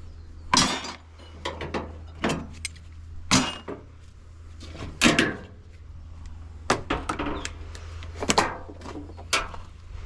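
Irregular sharp metal knocks and clanks, roughly one a second with a few much louder strikes, as the washing machine's tensioned suspension springs are smashed out.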